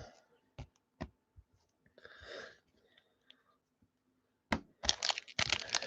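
Quiet pause with a few faint, isolated clicks and taps, as of cards or objects being handled on a table, and a soft breath about two seconds in.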